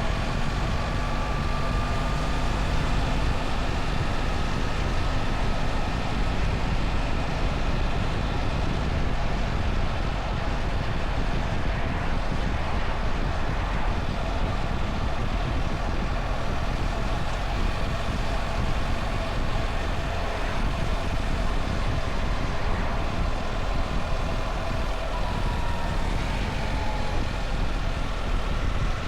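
BMW R1300 GS boxer-twin engine running at a steady cruise under a heavy rush of riding wind noise, its engine note rising a little at the start and dipping near the end.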